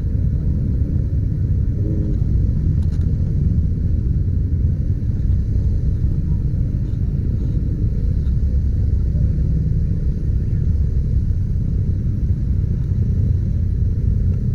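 Steady low rumble of a motorcycle ride, with wind buffeting the microphone over engine and road noise.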